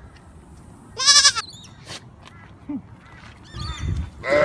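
Goat kid bleating: one short, high, quavering bleat about a second in, then a longer, lower bleat starting near the end.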